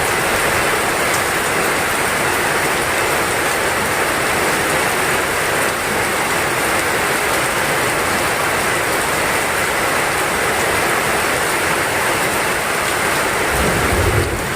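Heavy rain falling steadily in a dense, even hiss. A low rumble begins near the end.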